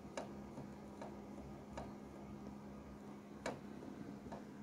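Faint, irregular light metallic clicks from a camshaft being shifted end to end in a VAZ 11183 cylinder head, knocking against its thrust faces: a sign of excessive axial play, measured at about 0.6 mm. A steady low hum runs underneath.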